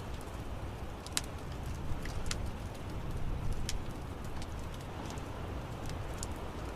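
Wood fire crackling in an outdoor fireplace: scattered sharp pops and snaps over a steady low rumble of burning.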